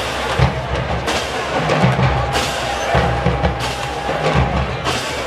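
College marching band drumline playing a cadence on the march: bass drums and snares under cymbal crashes about every second and a quarter.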